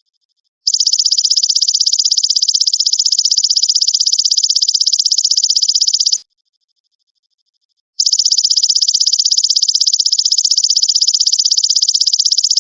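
Golden grasshopper (belalang emas) call: a high, rapidly pulsed buzzing trill that starts under a second in and runs about five and a half seconds, breaks off, and starts again about eight seconds in, running on past the end, with only a faint thin high tone in the pause. A recorded master song used to tutor songbirds.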